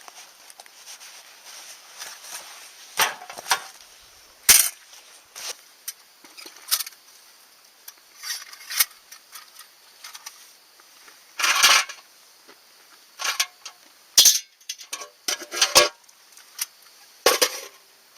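Irregular sharp knocks and clinks of hard objects being handled, about a dozen scattered through, with a longer clatter just before halfway.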